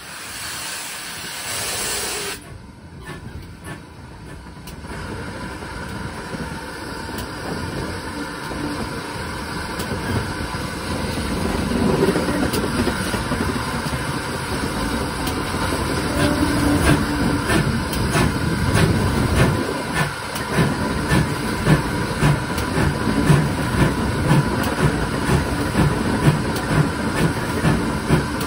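Pannier tank steam locomotive and train: a burst of steam hiss for about two seconds, then the train comes closer, growing steadily louder with a regular rhythmic beat.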